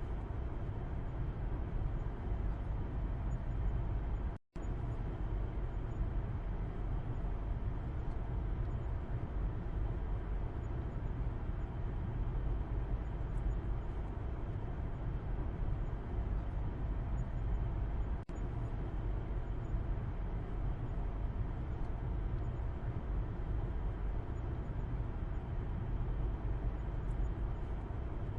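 Steady road and engine rumble inside a moving car, heard from the back seat, deepest in the low range. About four seconds in it drops out completely for a split second, with a second, shorter break later on.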